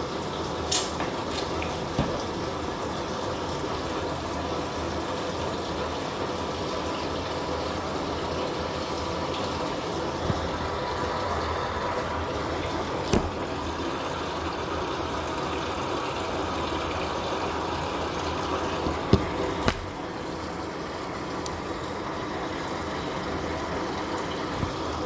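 Living & Co 5.5 kg top-loading washing machine filling its tub with water for the first rinse: a steady rush of water, with a few faint clicks. The level drops a little about twenty seconds in.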